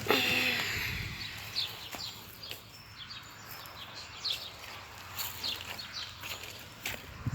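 Small birds chirping: short, high, falling chirps about once a second, with a louder rustling noise in the first second.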